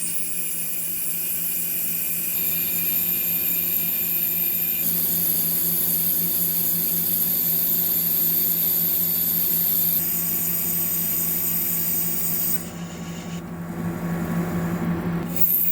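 Metal lathe turning a steel bulldozer pin with a ceramic insert, cutting through the induction-hardened surface layer: a steady cutting noise with a high whine. The noise drops for about a second well past the middle, then picks up again.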